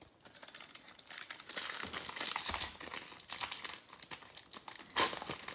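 Trading card pack wrapper being torn open and crinkled by hand, a dense crackle that peaks in the middle with a couple of sharp rustles near the end.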